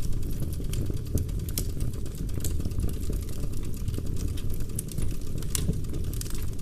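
Logs burning in a fireplace: a steady low rumble of flame with irregular sharp crackles and pops of the wood, several a second.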